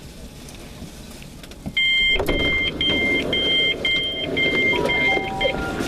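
Train door warning beeps: a two-tone electronic beep repeating about twice a second, starting about two seconds in. Louder station and train noise comes in at the same moment, as the passenger doors open at the platform.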